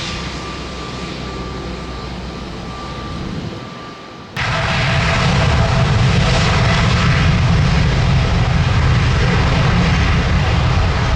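Boeing 787-9 Dreamliner jet engines running on takeoff. A steady engine noise with a thin whine runs for about four seconds, then becomes abruptly much louder and fuller and stays loud.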